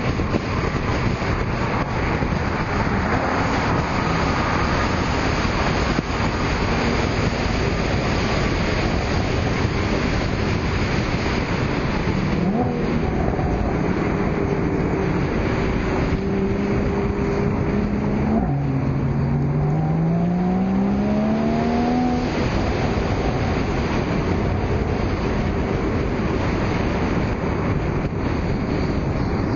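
Car engines and exhausts running over a constant rush of road and wind noise. About two thirds of the way through, one engine rises steadily in pitch as it accelerates.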